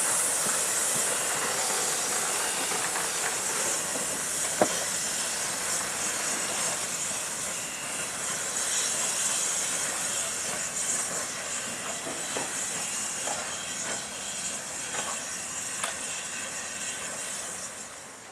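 Steam locomotive hissing steam steadily, slowly fading and dying away near the end, with a sharp metallic clank about four and a half seconds in.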